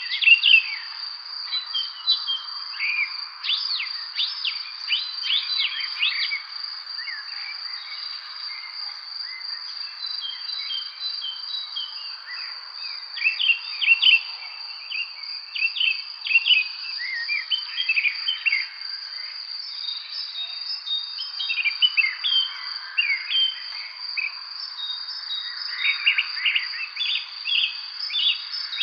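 Songbirds chirping, with many short quick calls coming in clusters, over a steady high-pitched insect trill.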